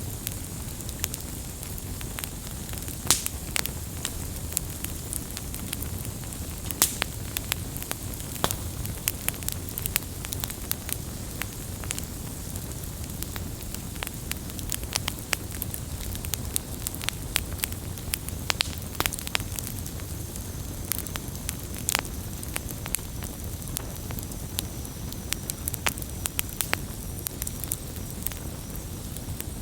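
Wood fire crackling, with frequent sharp pops and snaps over a steady low rush of flames.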